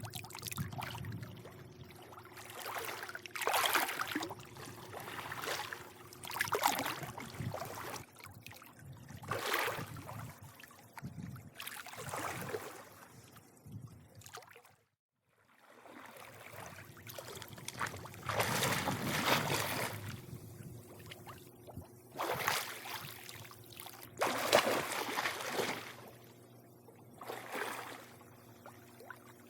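Swimming pool water lapping and sloshing in irregular swells every couple of seconds, over a faint steady low hum. The sound drops out to silence for a moment about halfway through.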